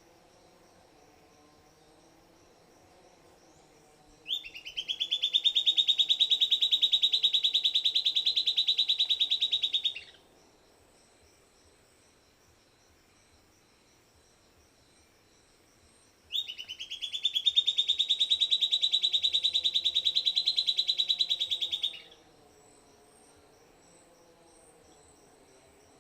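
Silvered antbird singing twice: each song is a loud, rapid trill of short repeated notes that opens with a sharp note, rises slightly in pitch and then holds level for about six seconds. The two songs come about twelve seconds apart, over faint steady insect buzzing.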